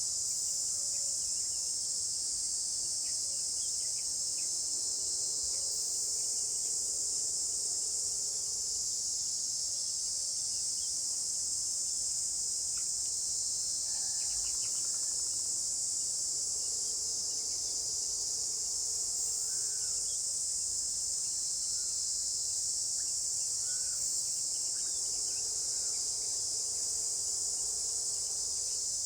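Steady, high-pitched drone of an insect chorus that runs on without a break, with a few faint short chirps beneath it.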